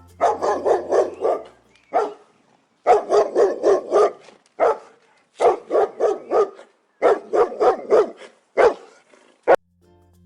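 A dog barking in quick runs of four to six barks, each run about a second long, with single barks in between.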